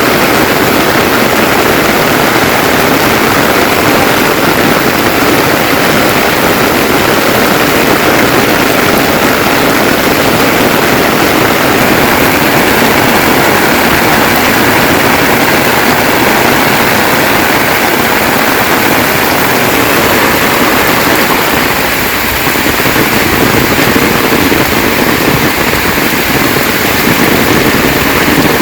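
Heavy rain falling steadily, a loud even downpour.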